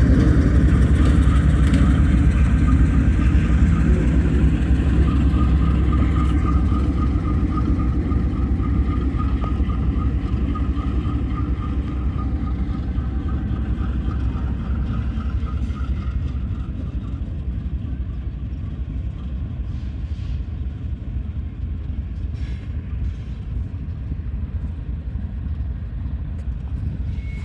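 Passenger train running along the track, a heavy low rumble that slowly fades as it moves away, with a thin steady whine over the rumble for several seconds in the middle.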